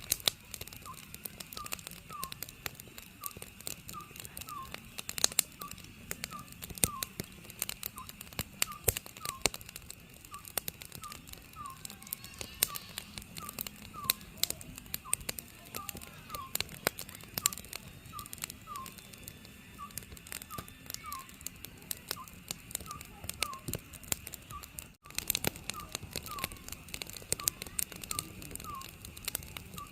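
Wood fire crackling with frequent sharp snaps, while an Oriental scops owl calls steadily, its short hoots repeating about once a second.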